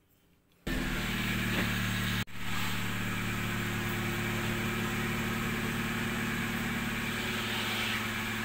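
A vehicle engine running steadily at idle. It starts abruptly under a second in and drops out for an instant a little after two seconds.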